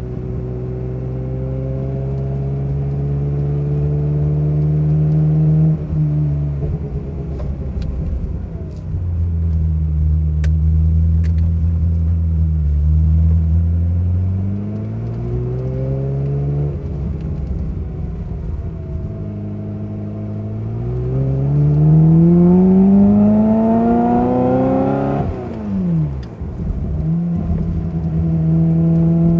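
Ferrari F355's V8 breathing through a Kreissieg exhaust, pulling through the gears of its manual gearbox: the engine note climbs, falls away at each shift, and climbs again several times. The longest, loudest climb peaks about 25 seconds in, then the revs fall steeply before the engine settles into a steady run.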